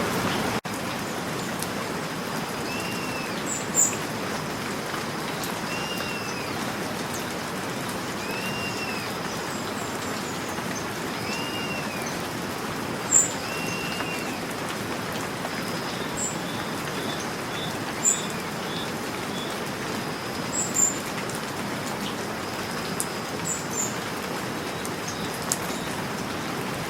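Steady rain falling, with birds calling through it: a short arching whistle repeated about every three seconds in the first half, and brief high chirps scattered throughout.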